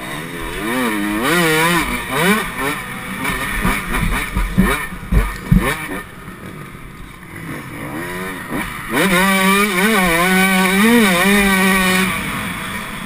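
Yamaha YZ125 two-stroke motocross engine revving hard, its pitch climbing and dropping again and again with throttle and gear changes, then held high for a few seconds near the end. A few low thumps come about halfway through.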